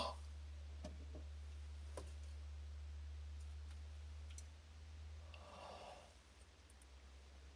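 A low steady hum that drops away about four and a half seconds in, with a couple of faint clicks, then a soft breath-like rustle.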